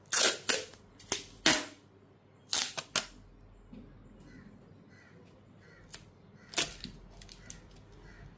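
A series of sharp clicks and snaps, like small objects or materials being handled: several in quick succession in the first second and a half, two more about three seconds in, and a single louder one about six and a half seconds in.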